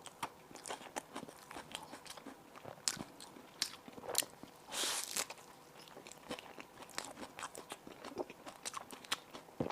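Close-miked eating: crunching bites and chewing of crisp bread with savory fillings, many short sharp crunches, with one longer crackling crunch about five seconds in.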